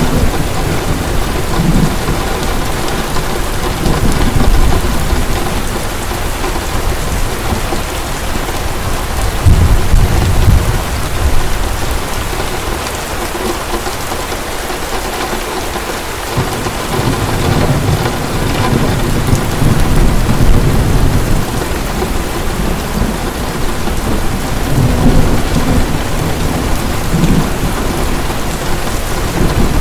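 Heavy rain pouring steadily, with low thunder rolling and swelling several times, strongest about ten seconds in and again around twenty seconds.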